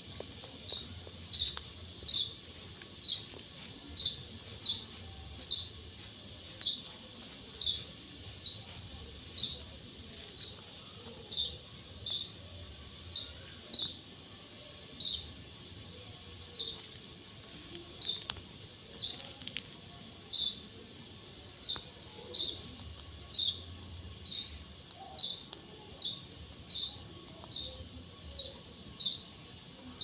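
A bird chirping over and over: short, high, falling chirps at a bit more than one a second, keeping an even pace throughout.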